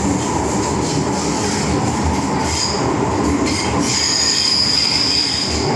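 MTR M-Train electric multiple unit running on the Island Line, with a steady rumble of wheels and motors. Its wheels squeal on the rail briefly about two and a half seconds in, then hold a steady high squeal from about four seconds in until just before the end.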